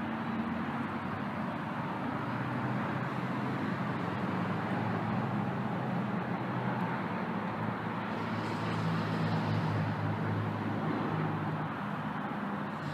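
Motor vehicle traffic: the steady hum of an engine under a haze of road noise, swelling a little about two-thirds of the way in.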